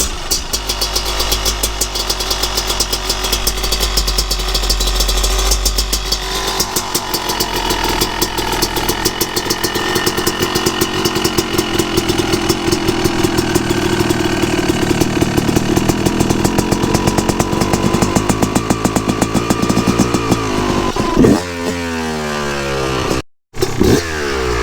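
Yamaha YZ250 two-stroke motocross engine idling steadily as it warms up from a cold start. About 21 s in it is revved in a few quick throttle blips, with a brief break in the sound just after.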